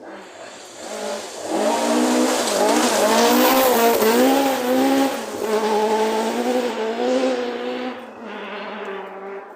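A rally car approaching and passing at speed, its engine revs dipping and rising several times. It is loudest about three to four seconds in and fades away near the end.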